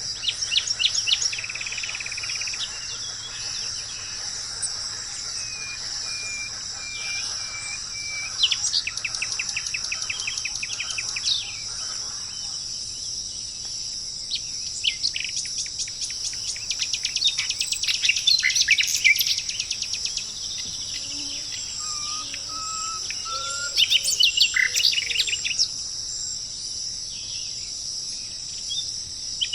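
Songbirds singing in short phrases of fast trilled notes and chirps, several times over, against a steady high chorus of insects such as crickets.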